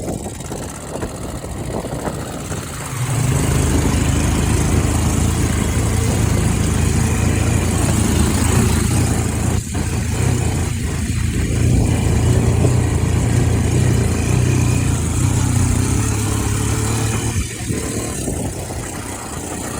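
Quad bike engine running steadily, getting clearly louder about three seconds in and easing off again near the end.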